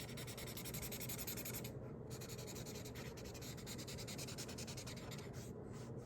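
Colouring on paper: a drawing tool scratching and rubbing back and forth in quick strokes, stopping briefly about two seconds in and again near the end.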